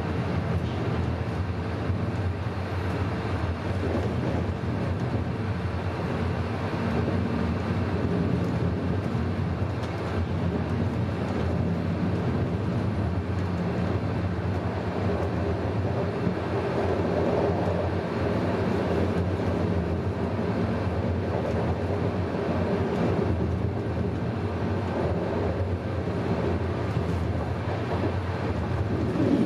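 Passenger train running along the track, heard from inside the carriage: a steady rumble with a low hum.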